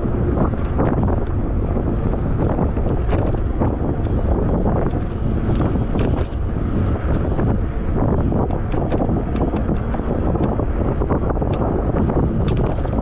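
Wind buffeting the microphone of a camera on a moving e-bike, a steady loud low rumble, with scattered small ticks and rattles.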